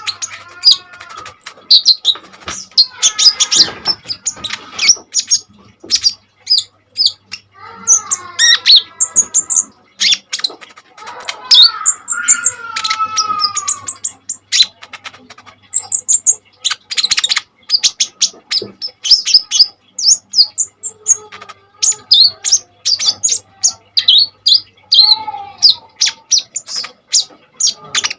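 Kolibri ninja sunbird singing hard: a rapid, unbroken run of sharp, high chirps and trills, broken by a few lower, drawn-out phrases that slide down in pitch.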